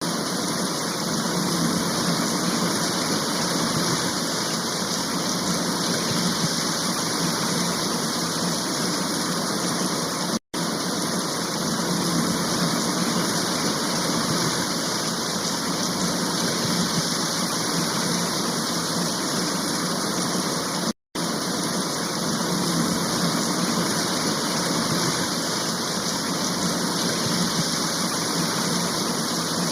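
Steady rushing of water, broken twice by a brief silent gap about ten seconds apart.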